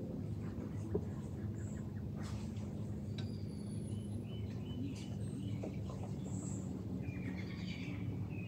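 Birds chirping on and off over a steady low hum, with a single sharp click about a second in.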